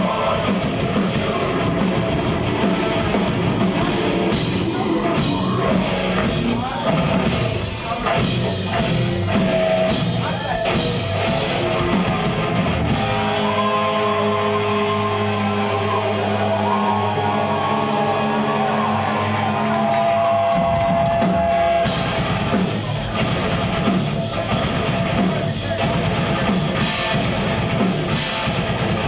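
Progressive death metal band playing live: distorted guitars, bass and drums. About halfway through, the drums drop out for several seconds, leaving held, ringing chords. The full band then crashes back in.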